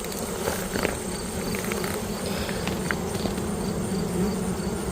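A swarm of honeybees buzzing in a steady hum as they work over extracted honey supers, cleaning out the last of the honey left after extraction.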